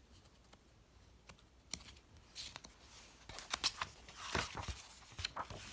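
Paper handling as a picture book's page is turned: a few light rustles and clicks, most of them in the second half.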